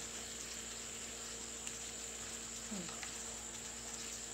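Marinated beef chunks and onions sizzling gently in a frying pan: a low, steady hiss with a few faint pops, over a faint steady hum.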